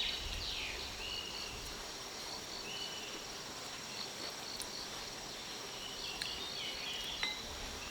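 Forest ambience of insects and birds: a steady high insect drone, runs of short repeated chirps, and a few brief bird whistles and falling calls.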